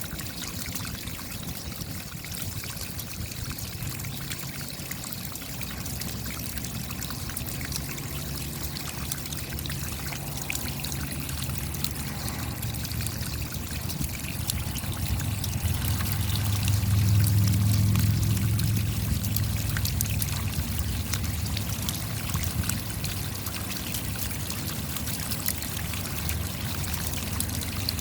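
Rain falling steadily, with many individual drops ticking and water trickling. A low rumble swells to its loudest about two-thirds of the way through, then fades.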